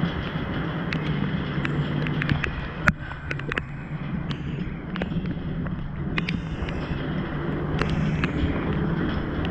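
Heavy rain pouring down, with many sharp taps of drops striking close to the microphone and one louder knock about three seconds in.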